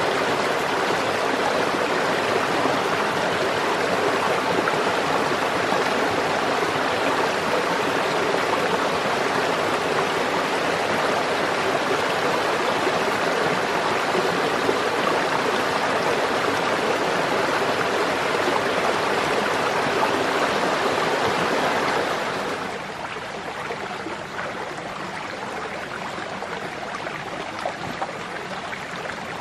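Steady rush of running water, like a forest stream, dropping to a quieter level about 22 seconds in.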